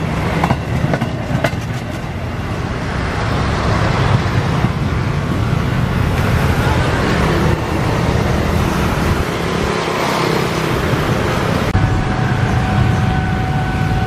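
Road traffic running steadily over a railway level crossing after a train has gone by. About twelve seconds in, a steady high tone begins and keeps sounding: the crossing's warning signal starting up for the next train.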